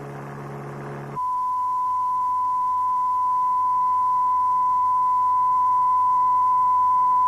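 A steady low hum with overtones for about a second, then cutting abruptly to a pure 1 kHz sine test tone that holds its pitch and swells slightly. These are frequency demonstration tones for ear training in noise diagnosis.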